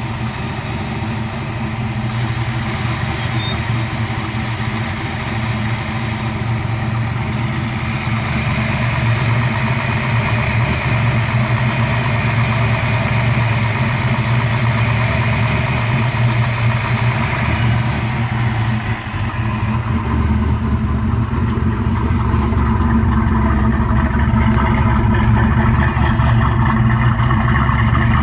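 Twin-turbo Fox-body Ford Mustang engine running at idle on its first start after winter storage. It runs steadily, dips briefly about nineteen seconds in, then runs a little louder.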